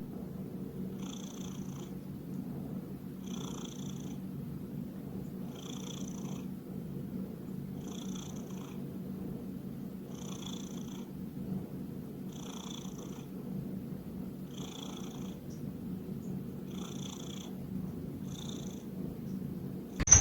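A domestic cat purring steadily, with a soft breathy swell about every two seconds as it breathes in and out.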